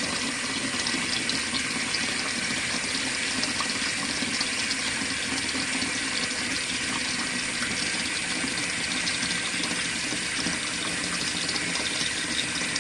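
Warm tap water running steadily from a faucet into a compact washing machine's tub, filling it toward the medium water level.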